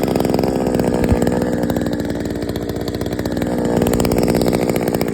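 68cc two-stroke earth auger engine running at high speed; its note sags a little midway and picks up again about four seconds in. A short knock sounds about a second in.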